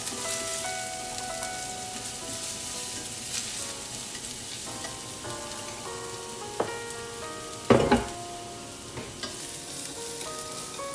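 Shallots, garlic and ginger sizzling in hot oil in a pan, stirred with chopsticks. A single sharp knock about eight seconds in.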